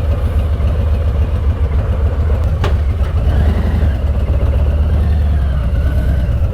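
Harley-Davidson motorcycle engine running steadily while riding, a deep even rumble under a haze of wind noise. A single sharp click comes about two and a half seconds in.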